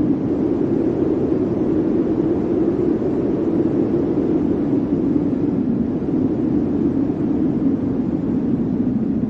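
Blizzard wind blowing steadily: a low, even rush with no single gust or other sound standing out.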